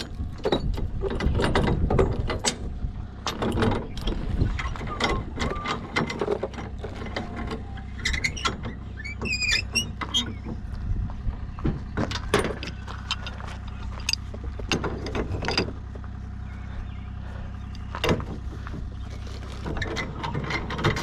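Irregular knocks and scrapes of hand tools digging into dirt and rubble, over a steady low machine hum.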